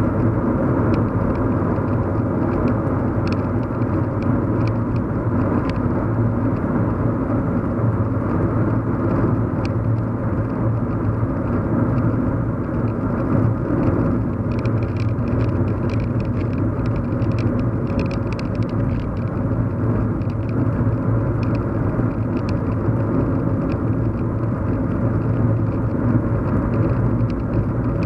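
Steady cabin hum of a car being driven: engine and road noise with a low drone, with faint small ticks and rattles now and then.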